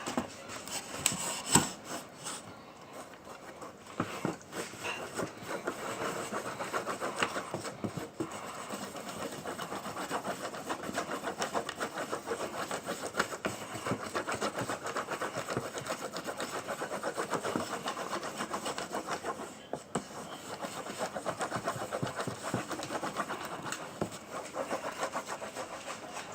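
A utensil stirring and scraping a thick mixture of gel body wash and toothpaste on a plate in fast, even strokes, with a few knocks against the plate in the first few seconds.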